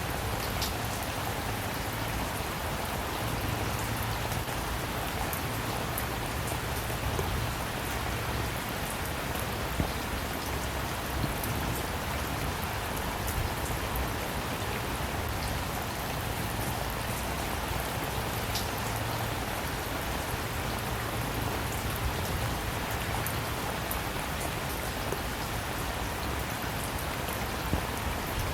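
Steady rainfall, an even hiss with scattered individual drops tapping on a surface.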